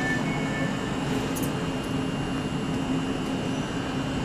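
A train running at a station: a steady mechanical hum with a constant low tone and a thin, steady high whine above it.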